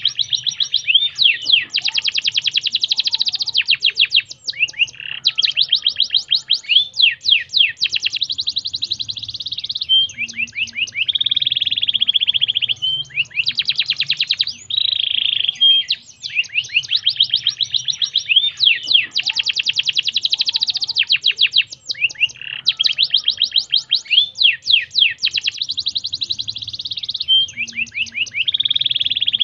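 Domestic canary singing continuously, its song made of rapid trills: phrases of fast repeated notes, each run lasting a second or two before switching to a new note type.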